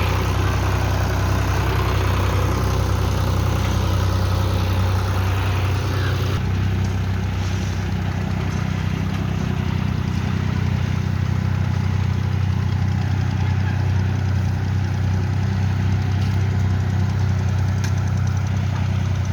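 John Deere tractor engine running steadily at a constant speed. About six seconds in, the higher hiss drops off while the low engine note carries on.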